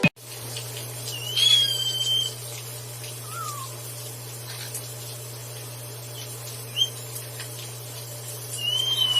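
Parrot whistling over a steady low hum. It gives a clear whistle that rises and then holds about a second in, a short falling note, a brief chirp, and near the end another whistle that slides slowly down.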